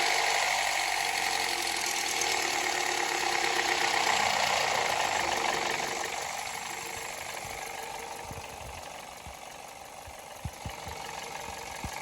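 Toyota Corolla GLI engine running just after starting, easing down in level over several seconds, with a few sharp knocks near the end. This is the abnormal running noise the car has been brought in for.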